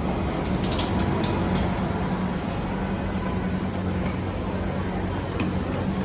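MRT train and station ambience: a steady low mechanical hum with a few faint light clicks.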